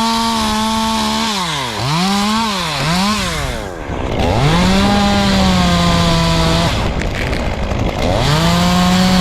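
Gas chainsaw revved to full throttle and held for a second or two, then let back to idle. This happens three times, with two quick throttle blips after the first rev.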